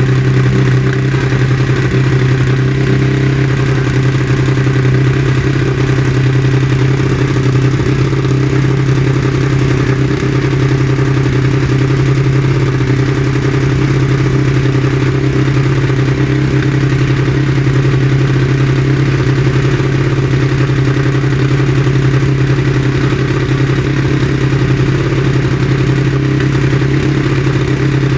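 Ducati 1299 Superleggera's 1285 cc Superquadro L-twin idling steadily, a loud, even engine note with no revving.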